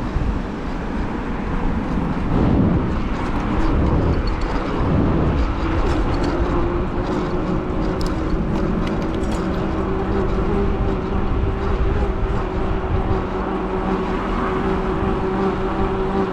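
Traffic noise heard from a moving bicycle, with wind rushing over the microphone and vehicles going by; from about six seconds in a steady low hum runs underneath.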